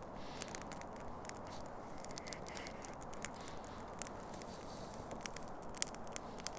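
Newly lit campfire kindling crackling, with scattered sharp irregular pops over a low background hiss.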